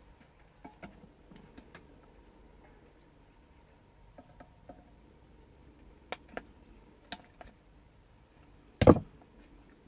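Scattered light clicks and taps of small tools and parts being handled at a workbench during a soldering repair, with one much louder knock near the end.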